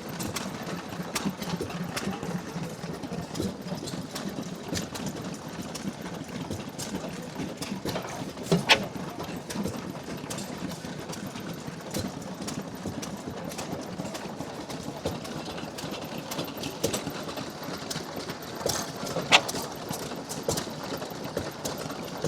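A 7 hp Tangye oil engine running on kerosene with its hot tube lit: a steady low hum with irregular clicks and knocks, two of them sharper, about nine and nineteen seconds in.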